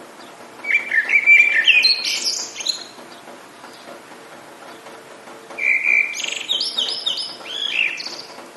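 A songbird singing two phrases of quick, varied chirps and trills, the second about three seconds after the first ends, over a steady hiss of rain.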